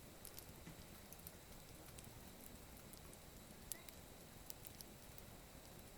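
Small campfire of gathered wood crackling faintly, with sparse sharp pops over a low hiss; the loudest pop comes a little past halfway.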